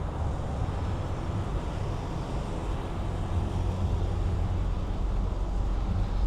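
Steady road traffic noise with a low rumble, heard from a bicycle riding along a city street.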